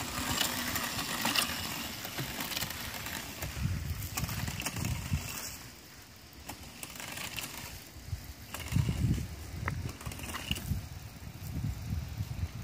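Gravelly crunching over dirt ground with scattered crackles, and no motor pitch audible. Low rumbles of wind on the microphone swell up a few times.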